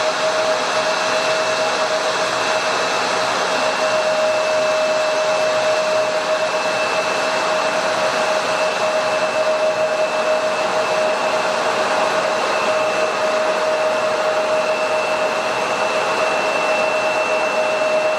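Jet airliner engines running steadily, a constant rushing noise with a steady whine on top and no rise or fall in pitch.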